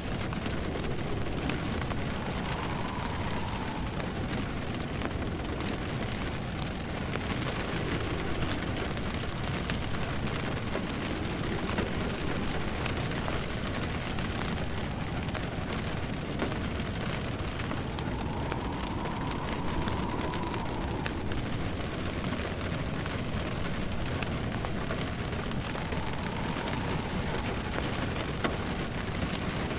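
Steady rain hissing on a surface, layered with a crackling fireplace that gives scattered small pops through the even rain noise.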